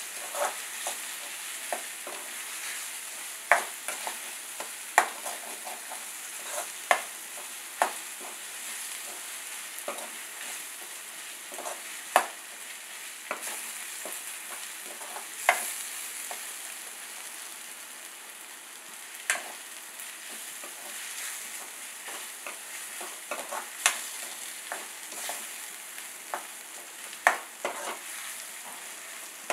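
Chopped onions, green chillies and curry leaves sizzling in oil in a steel pan, stirred with a metal spatula that scrapes and clicks against the pan at irregular moments. The onions are being fried down toward caramelization for a curry base.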